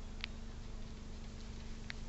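Two short, sharp clicks from an animal at a bird feeder, one just after the start and one near the end, over a steady low electrical hum and hiss.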